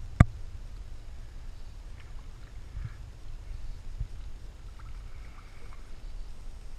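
Canoe paddling on a river: one sharp knock shortly after the start, then a steady low rumble with a few faint knocks.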